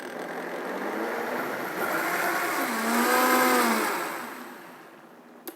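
Vitamix blender motor running, blending rice milk with cocoa; its pitch dips and rises midway, then it winds down and fades out near the end. A sharp click comes just before the end.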